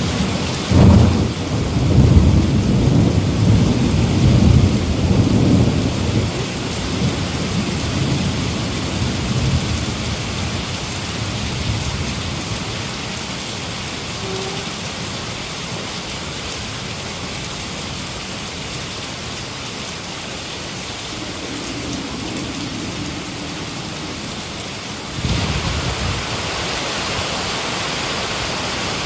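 Heavy rain falling steadily, with a loud thunderclap about a second in that rumbles on for several seconds before fading. Near the end the rain gets louder and another low rumble of thunder sets in.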